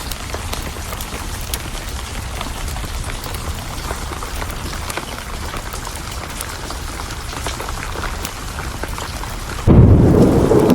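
Steady rain with scattered sharp ticks of drops. Near the end a sudden loud thunderclap breaks in and keeps rumbling.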